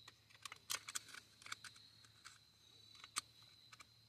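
Scattered faint clicks and light taps from tools and small parts being handled, the loudest just before and after a second in and again about three seconds in, over a steady high insect trill.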